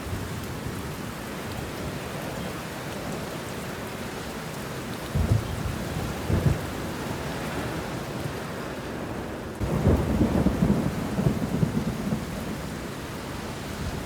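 Steady rain falling on banana leaves and bushes, with thunder rumbling about five seconds in and again, louder and longer, from about ten seconds.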